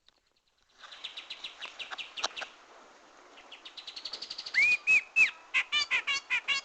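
Grey-cheeked bulbul (cucak jenggot) calling. After a brief silence there is a run of quick chattering notes. From about halfway come loud clear whistles: three arched slurred notes, then a fast string of sharp notes, about five a second.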